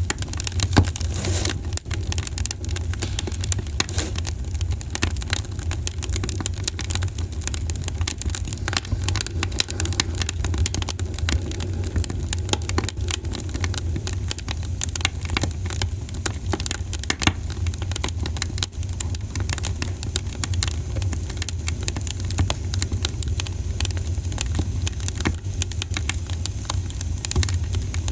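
Campfire crackling, with many small irregular pops and one louder crack about a second in, over a steady low rumble.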